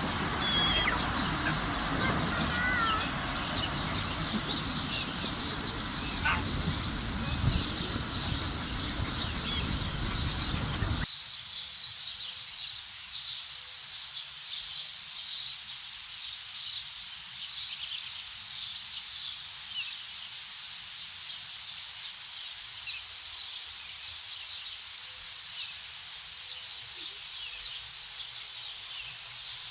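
Many small birds chirping and calling in quick, overlapping notes. A steady rushing background noise under them cuts off abruptly about eleven seconds in, leaving the high chirping alone.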